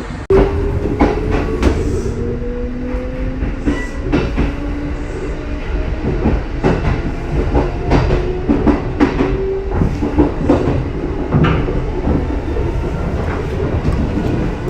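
Kintetsu 2444-series electric train running, its wheels clicking sharply over rail joints again and again. A motor whine rises slowly in pitch over the first few seconds as the train gathers speed.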